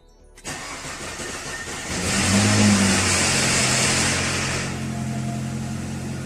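First start of a freshly rebuilt Nissan engine: it turns over, catches about two seconds in and flares up loudly, then settles to a steady idle about five seconds in.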